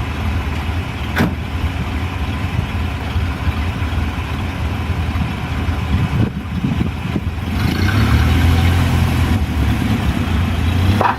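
1930 Ford Model A's four-cylinder engine running at low speed, growing louder and stronger about seven and a half seconds in as more throttle is given. A sharp click sounds about a second in.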